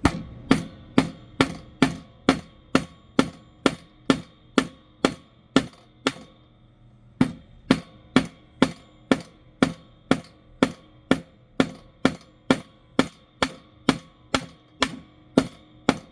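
Hammer tapping small nails into the pre-drilled holes of a wooden birdhouse kit panel: steady strikes about two a second, with a break of about a second some six seconds in.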